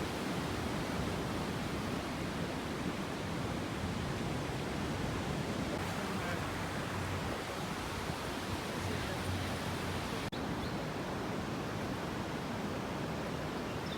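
Steady rushing noise of river floodwater, even and unbroken apart from a momentary dropout about ten seconds in.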